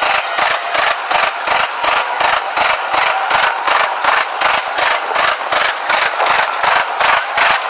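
Freight train of coal gondola cars rolling past close by: a steady rhythmic clatter of steel wheels on the rails, about four clacks a second, over a continuous rolling hiss.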